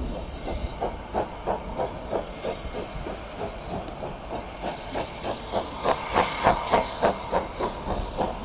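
Steam locomotive, most likely Ivatt 2MT 2-6-0 No. 46521, pulling away from the station: sharp, even exhaust beats about three a second over steam hiss, getting louder to a peak about six seconds in.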